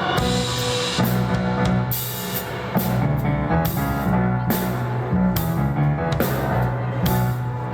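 Rock band playing an instrumental passage: a drum kit with regular cymbal hits over a moving bass line and guitar.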